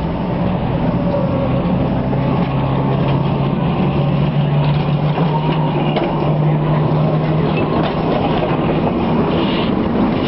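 Electric tram running, heard from on board: a steady rumble with a low motor hum, part of the hum dropping away about three-quarters of the way through.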